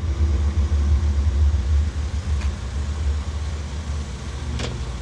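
Low, steady rumble of a car engine idling.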